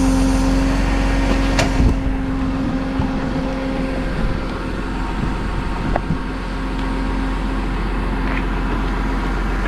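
Tow truck engine idling steadily with a constant hum, and a few short metallic clicks and knocks from the rigging.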